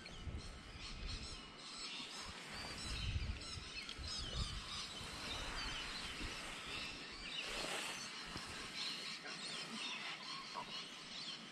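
Birds chirping over steady outdoor background noise, with low wind rumble on the microphone in the first few seconds.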